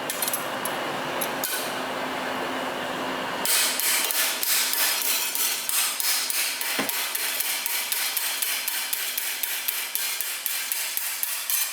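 A steady noisy hiss for about three and a half seconds, then a hammer striking metal repeatedly, about two to three blows a second, during exhaust work on a car.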